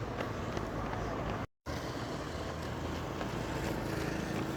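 Outdoor street ambience with wind buffeting the microphone, with a short total dropout in the audio about a second and a half in.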